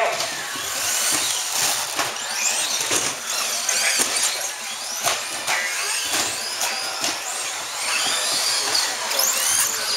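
Several RC stadium trucks racing at once, their motors whining and swooping up and down in pitch as they accelerate and slow around the track, with occasional sharp knocks.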